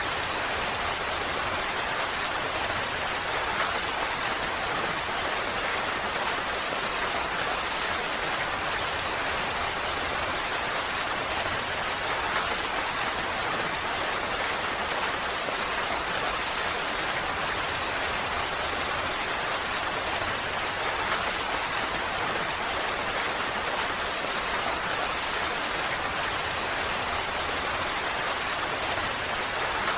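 Steady rain falling, a continuous even hiss of drops with scattered fainter ticks of individual drops.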